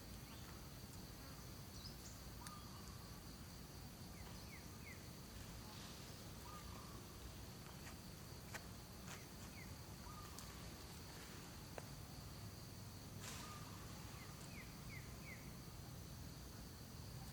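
Faint outdoor ambience: a steady high insect drone, with groups of three short falling bird chirps a few times and an occasional click.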